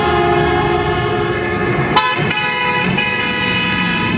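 Car horn held down in a long steady blast; about two seconds in it clicks and changes pitch slightly, then sounds on.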